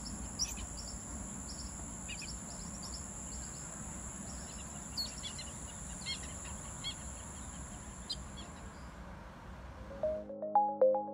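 Outdoor ambience: small birds chirping now and then, with a steady high-pitched hiss and a low background rumble. About ten seconds in the ambience cuts off and bell-like music with repeated plucked notes begins.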